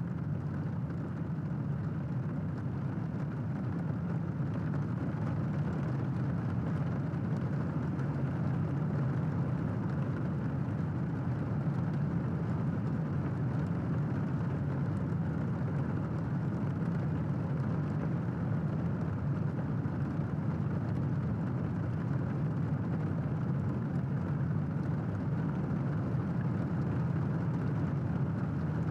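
Steady rain, a continuous even noise weighted toward the low end, with no separate thunderclap.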